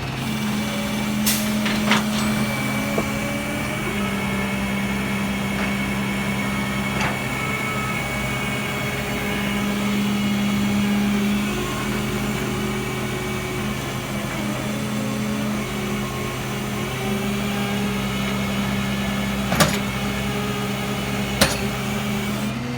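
Tow truck's engine and hydraulics running steadily as a car is pulled up onto the truck, a droning hum whose pitch dips slightly now and then. A few sharp clicks or clanks sound, two of them near the end.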